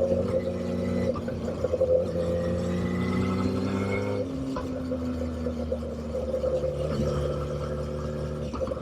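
Motorcycle engine running while riding, its note rising slightly and then dropping sharply about four seconds in before holding steady.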